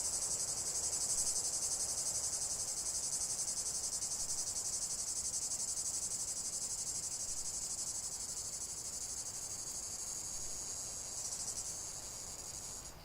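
Dense, high-pitched insect chorus: a fast continuous trill that eases slightly and then cuts off suddenly near the end.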